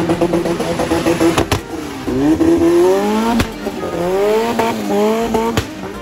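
Turbocharged Toyota 5A four-cylinder car engine revving hard, its pitch climbing again and again, with a fast stutter at first and a few sharp cracks between revs.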